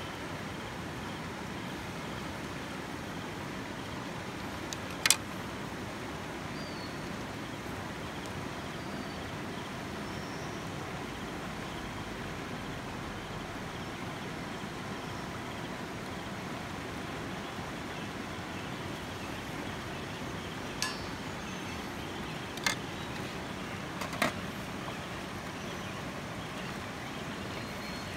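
Steady rush of flowing creek water, with a few sharp clinks, the loudest about five seconds in and three more close together near the end.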